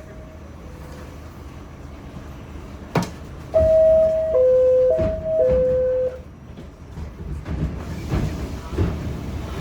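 Subway car door-closing chime: a two-tone descending ding-dong played twice, after a sharp click. Low rumbling follows as the train starts to move.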